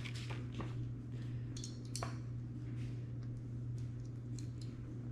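Faint scattered clicks and rustles of small plastic toy doll pieces being handled, over a steady low hum.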